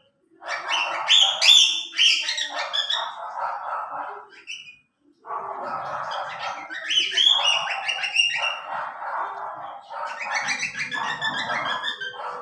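Baby cockatiel chicks chirping and calling continuously, in two long stretches with a brief pause about halfway.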